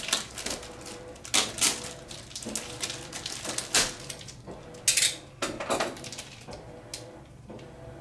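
Packaging being handled while a spare RC-plane propeller is taken out: irregular rustles, scrapes and light knocks, the loudest about five seconds in.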